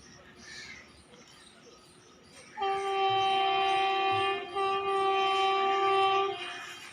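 Electric locomotive horn sounding one long steady blast that starts about two and a half seconds in, with a brief break midway, after a stretch of faint train noise.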